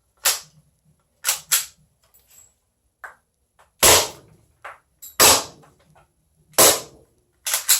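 Glock 18C gas blowback airsoft pistol firing single shots: three loud, sharp cracks about a second and a half apart, each with the snap of the slide cycling. A few lighter clicks come before them.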